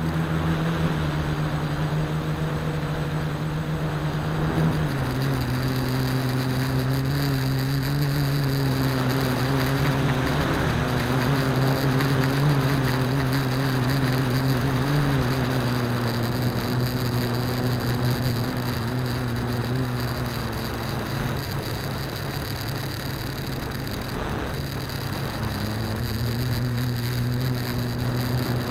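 AeroQuad quadcopter's electric motors and propellers humming steadily. The pitch drops a little about five seconds in, wavers through the middle and rises again near the end.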